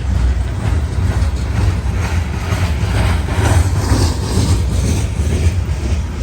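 Train passing: a steady low diesel engine rumble, with rail and wheel noise swelling about two to four seconds in.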